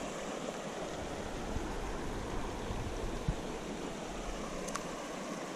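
Steady rush of flowing river water, with a faint click near the end.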